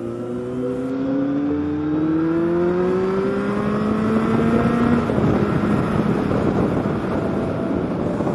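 Kawasaki Z800's inline-four engine accelerating, its pitch climbing steadily for about five seconds. The engine note then fades under a loud wind rush.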